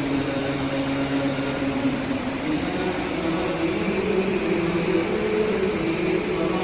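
A steady drone of several held pitches that shift slowly up and down, over a background hiss. It is the strange sound that seems like a crowd of unseen worshippers chanting together.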